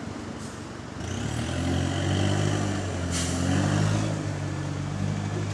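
The GAL SE152 bus's engine pulling away, its note rising about a second in and running loud and steady, with the exhaust sound of a leaking exhaust. A short, sharp hiss of air cuts in about two seconds later.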